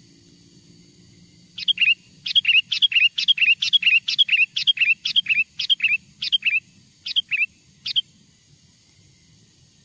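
Sooty-headed bulbul (kutilang) giving a rapid run of short, paired chirping notes, about three a second. The run starts under two seconds in and stops about eight seconds in. It is a wild bird's call, played as a lure to draw other wild bulbuls.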